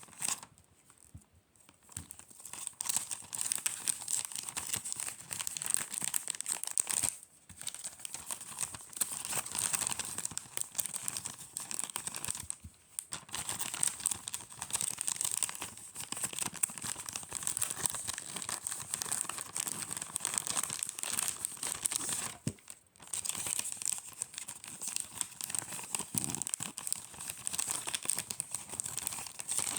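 Gift-wrapping material crinkling and tearing as it is handled, almost without stop. There are short pauses about a second in and again at about 7, 13 and 23 seconds.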